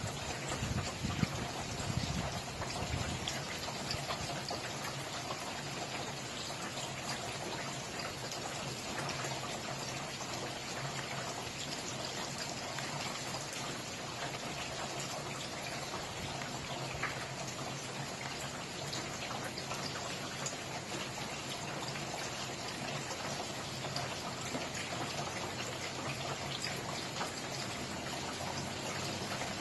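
Steady rain falling, a dense patter of drops, with a few heavier low thumps in the first few seconds.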